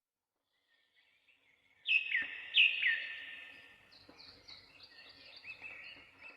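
Birds calling: after a silent start, two loud, sharp downward-sliding chirps about two seconds in, followed by softer, quicker twittering.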